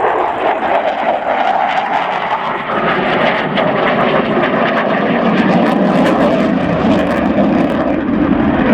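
Jet engine noise of an RAF Eurofighter Typhoon flying its display, a loud rushing sound whose pitch falls as the aircraft passes.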